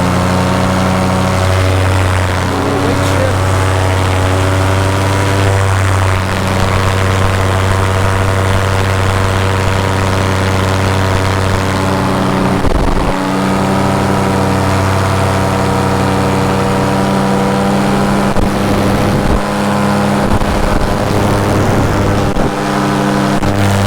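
Paramotor engine and propeller running in flight, a steady drone whose pitch steps up and down several times as the throttle is changed, with a brief dip about 13 seconds in.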